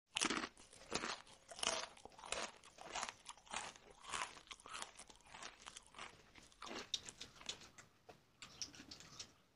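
A person chewing and crunching mouthfuls of food close to the microphone, with quick crunches two or three times a second that grow fainter near the end.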